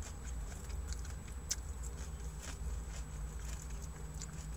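A person chewing food with the mouth closed: soft, scattered small mouth clicks and smacks over a steady low hum.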